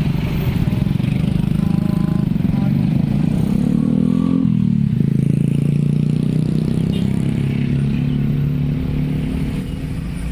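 Road vehicle engines, motorcycles among them, running and pulling away at a railway level crossing just after its warning tone has stopped. About three and a half seconds in, one engine rises in pitch, then drops sharply about a second later.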